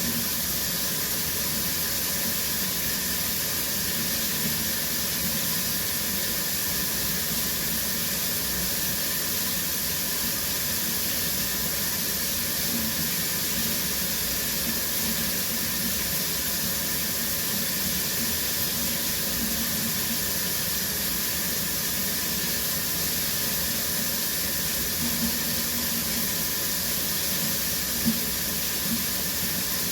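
Shower running steadily, water spraying and splashing down as a constant hiss, with one brief small knock or splash near the end.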